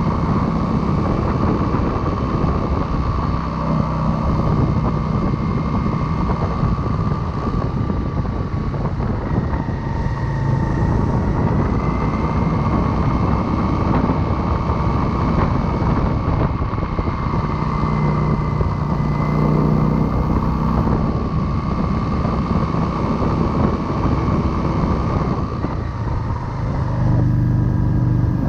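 Motorcycle being ridden, its engine running steadily under heavy wind and road noise, with a thin whine that wavers slightly in pitch. The engine note swells a few times, most plainly about two-thirds through and near the end.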